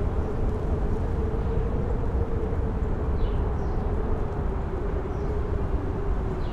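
Strong wind with a low rumble and a howling tone that rises in pitch and then sinks again over several seconds.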